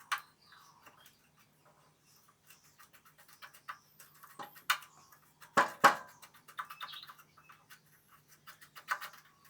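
Light clicks, taps and scraping of hard objects being handled, with two sharper knocks a little past halfway.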